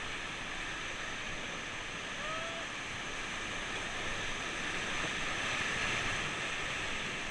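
Whitewater river rapids rushing steadily, with a brief faint high call about two seconds in.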